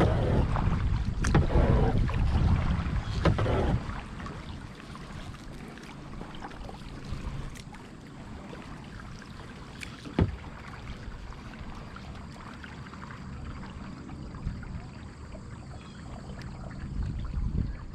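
Kayak paddling on a lake: paddle strokes dipping and splashing in the water. A loud low rumble of wind on the microphone runs for about the first four seconds, then drops away; a few short knocks come later.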